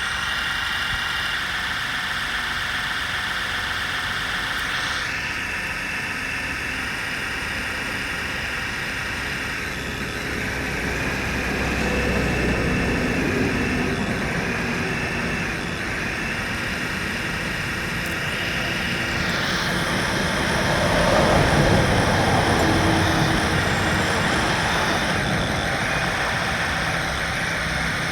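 Remote-control model construction vehicles running: a steady mechanical whine of many tones. It shifts in pitch about five seconds in and again near twenty seconds, and grows louder twice as the machines work harder.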